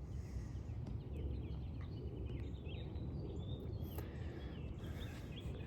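Faint outdoor ambience: a steady low rumble with small bird chirps scattered through it.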